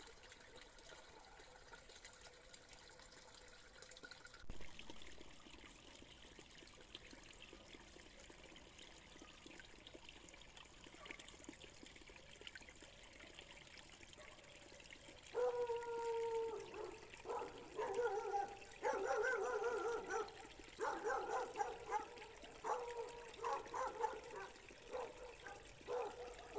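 Water trickling steadily into a pond, changing abruptly about four seconds in. From about halfway, a string of loud, pitched calls comes and goes over the water, each lasting under a second.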